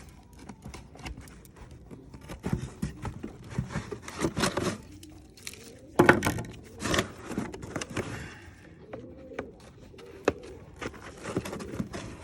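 Cardboard shipping box being handled and worked on: irregular scraping, rustling and clicks of cardboard, with a sharp knock about six seconds in.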